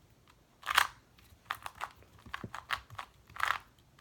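Plastic clicking and clacking of a magnetic 2x2 speedcube being turned fast, in several short bursts of turns with brief pauses between them.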